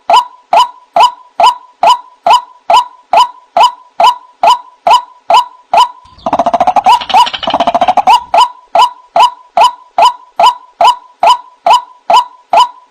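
White-breasted waterhen (ruak-ruak) calling: one sharp note repeated evenly about two to three times a second. About six seconds in, a roughly two-second burst of lower, faster gurgling breaks in, then the repeated notes resume. This is a lure call recording used for trapping the bird.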